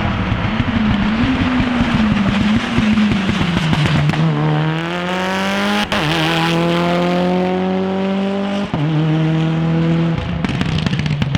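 Mitsubishi Lancer Evo IX race car's turbocharged four-cylinder engine accelerating hard, its pitch climbing, with upshifts about six and nine seconds in. Near the end it comes off the throttle with a run of sharp crackles.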